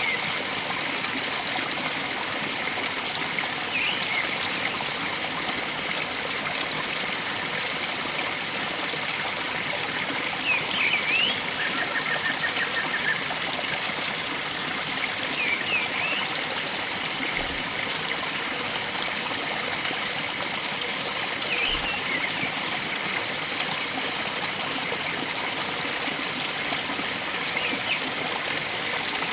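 Steady rush of flowing stream water, with a bird giving short high chirps every five or six seconds and a brief trill about twelve seconds in.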